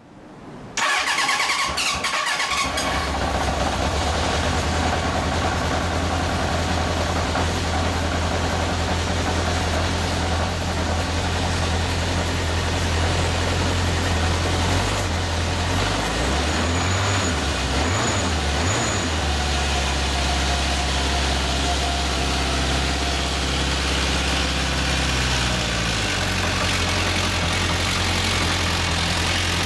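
1979 Honda CB750F's air-cooled inline-four started from cold: it catches about a second in and settles into a steady idle. Around the middle the pitch briefly rises and falls a few times.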